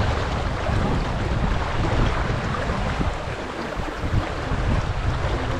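Wind buffeting the microphone over the steady rush of sea water along a sailing yacht's hull while under sail.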